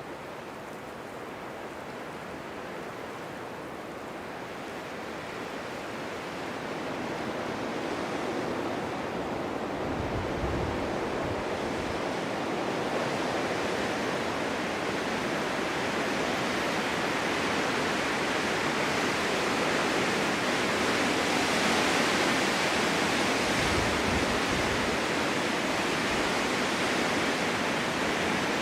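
Snowstorm wind blowing in a steady rush that swells louder through the first half as a gust builds. Two brief low rumbles come through, about ten seconds in and again near the end.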